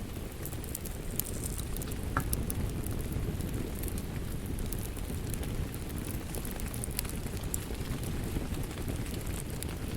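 Wood fire crackling in a fireplace: a steady low rumble of the flames with scattered sharp pops and snaps.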